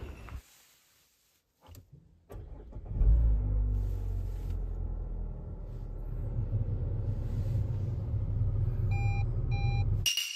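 A couple of soft knocks, then a Mazda SUV's engine starting about three seconds in with a loud surge and settling into a steady idle. Two short electronic beeps from the car sound near the end.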